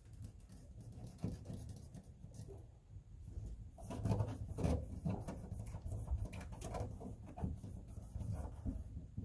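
Hands pressing and rubbing self-adhesive sound-deadening mat down onto a truck's cab floor: scattered taps, knocks and rustles, busier and louder from about four seconds in.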